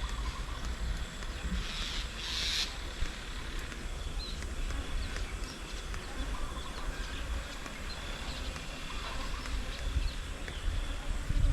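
Faint, scattered bird calls over a steady low rumble, with a brief hissing rush about two seconds in.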